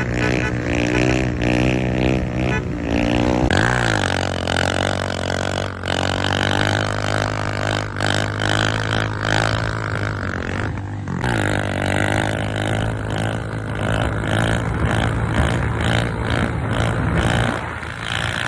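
Motorcycle engine running and being revved, its pitch sweeping up and down about three seconds in and again near eleven seconds.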